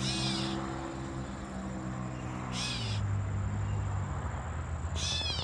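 Catbird giving three short mewing calls, about two and a half seconds apart. A steady low hum runs underneath.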